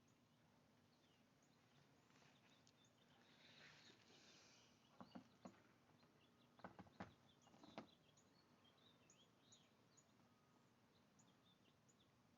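Very quiet outdoor air with faint, scattered small bird chirps throughout. A handful of sharp clicks, the loudest sounds here, come between about five and eight seconds in.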